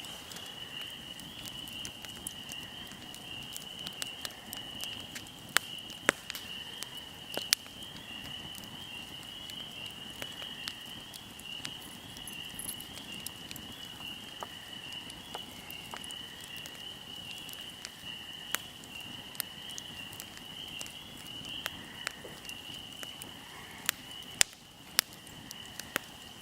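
Fire burning with scattered sharp crackles and pops, a few louder than the rest, over a steady high-pitched chirring of insects.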